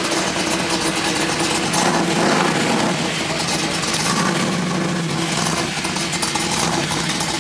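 Car engine running at idle: a steady, loud rumble with a lot of noise over it.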